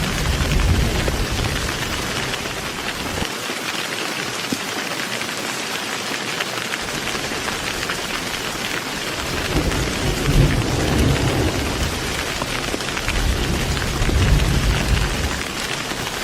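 Heavy rain falling steadily with thunder. A low rumble fades out in the first few seconds, then builds again from about nine seconds in, with louder rolls about ten and fourteen seconds in.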